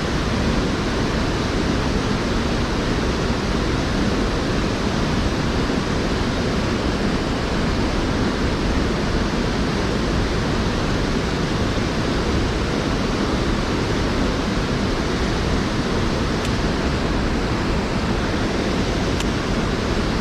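Steady rush of water from a waterfall on a small creek.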